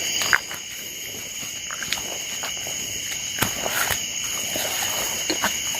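Night insects trilling steadily at two high pitches, with scattered footstep crunches and rustles through undergrowth; a sharp snap comes about a third of a second in and another about three and a half seconds in.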